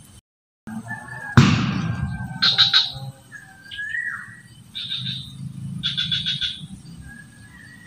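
Wild birds calling in streamside forest: repeated rapid trills and short whistled notes that slide in pitch, several times over. A single sharp, noisy burst about a second and a half in is the loudest sound.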